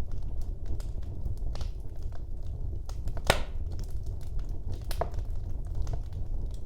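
Wood fire burning in a fireplace, crackling with scattered small snaps over a steady low rumble of flame, and a louder pop about three seconds in and another near five seconds.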